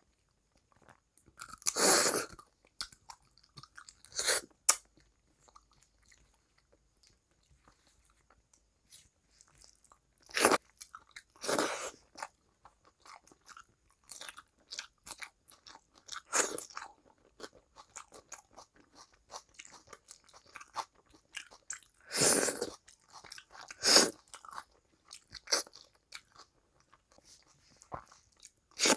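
Close-miked eating: crunchy bites and chewing of a handful of rice with crisp bits, coming in separate loud bursts every few seconds with quiet between.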